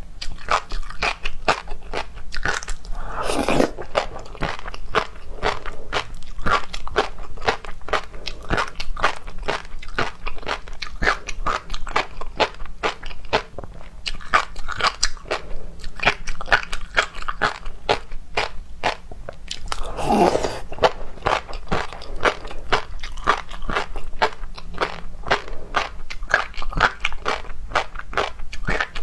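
Close-miked eating of seafood: continuous crunching and wet clicking of biting and chewing, with two longer, louder bites, one about three seconds in and one about two-thirds of the way through.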